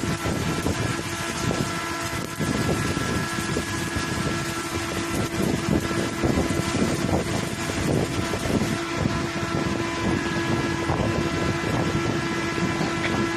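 Welding arc crackling steadily during a root or fill pass on a large steel pipe, over a constant machine hum.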